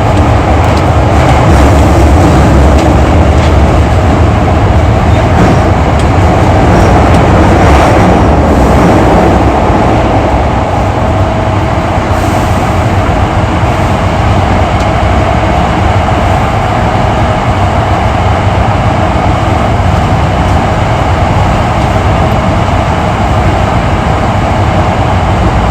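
Hankyu 8300 series electric train running between stations, heard from inside the car: a steady, loud rumble of wheels on rail. It eases a little about ten seconds in, and a thin steady whine from the drive becomes audible.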